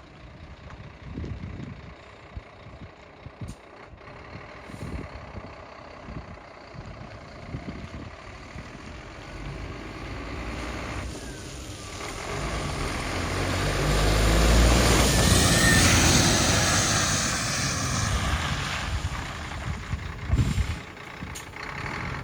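A heavy truck drives by. Its sound builds to a peak about halfway through and then fades, and there is a short knock near the end.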